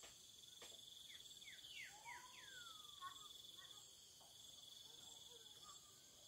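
Faint steady high chirring of crickets and other insects. About one to two and a half seconds in, a bird gives a run of quick falling whistles.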